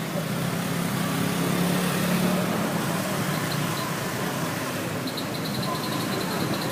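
An engine running steadily over a wash of noise, its low hum swelling about two seconds in. Faint short high-pitched chirps come in near the end.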